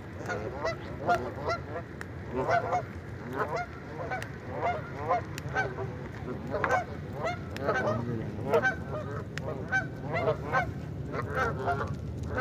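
A flock of geese honking, many birds calling over one another with several short honks a second.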